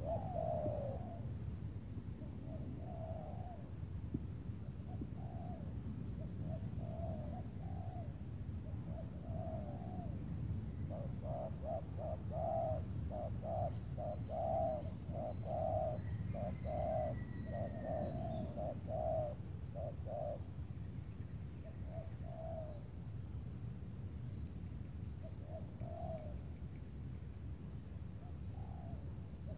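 Spotted doves cooing in repeated phrases, with a quick run of many coos in the middle. A faint, high, pulsing chirp comes back every couple of seconds behind them.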